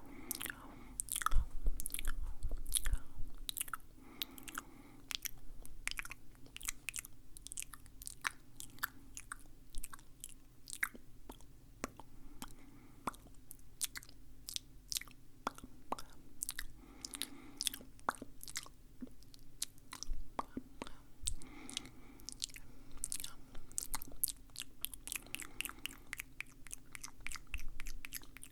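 Close-miked wet mouth sounds: a dense, irregular run of lip and tongue clicks and smacks, like nibbling or chewing, louder in the first three seconds.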